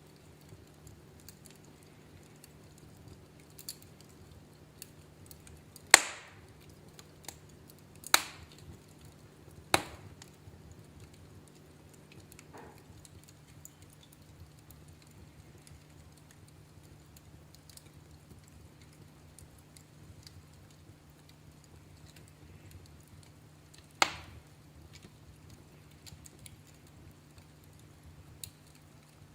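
Wood fire crackling in a fireplace: scattered sharp pops and snaps, a few loud ones about six, eight, ten and twenty-four seconds in, with faint ticks between them over a low steady hum.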